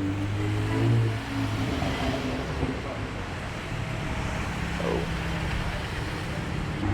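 Car engine running at idle, a steady low hum under outdoor background noise.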